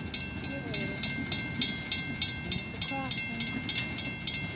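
Train passing, with a regular sharp clicking about three times a second over a low rumble.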